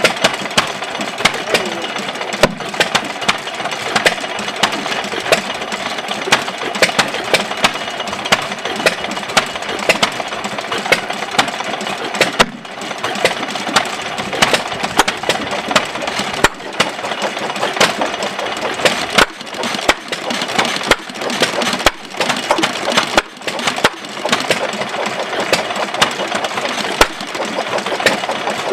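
1914–15 Amanco "Hired Man" 2¼ hp hit-and-miss gas engine running, a sharp firing bang at uneven spacing every second or less over a steady mechanical clatter.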